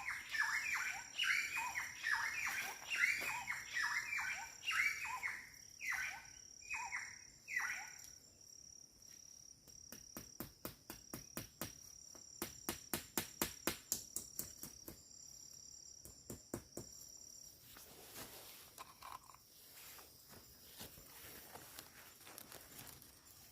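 Forest ambience: a bird calling in quick repeated chirps for the first third, over a steady high-pitched insect drone. In the middle comes a run of quick faint taps or clicks, several a second.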